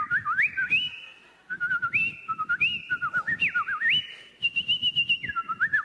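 A man whistling an imitation of cheerful birdsong: quick warbling notes that leap up and down, some held high notes, and a fast trill near the end.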